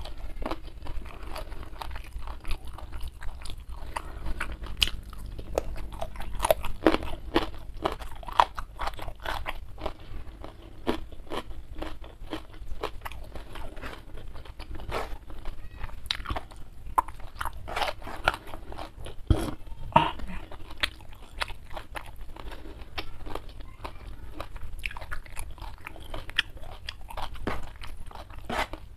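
Close-miked chewing and crunching of a rice meal with salted fish, eaten by hand: irregular crisp crunches, wet mouth clicks and fingers working the rice.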